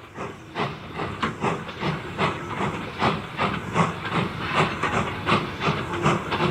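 Steam locomotive chuffing at a steady pace, about three exhaust beats a second, over a continuous hiss of steam.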